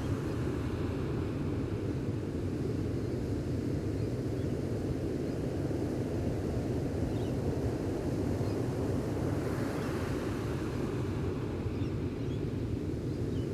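Gentle ocean waves on a beach: a steady low surf rumble, with a wave washing in just after the start and another about two-thirds of the way through.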